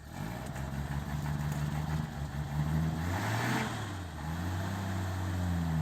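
1936 Pontiac's flathead engine running, its pitch rising and falling as the car is driven, likely backing out.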